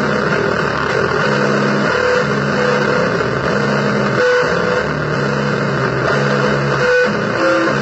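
Loud, distorted noise music: a dense, rough wash of sound with low droning tones that cut in and out every half second to a second.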